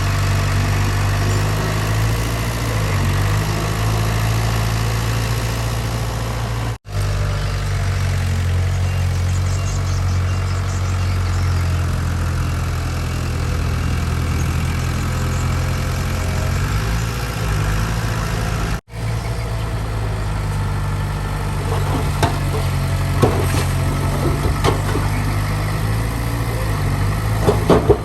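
Heavy diesel engine of earthmoving machinery running steadily, with sharp metallic knocks and clanks over it in the last few seconds. The sound drops out briefly twice.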